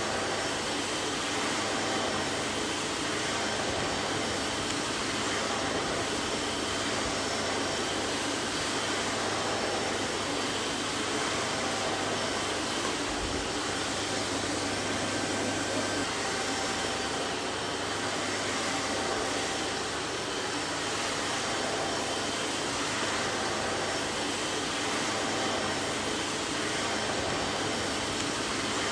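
Vacuum cleaner running steadily, a continuous even whooshing hiss of its motor and airflow with a low hum and a few faint whining tones.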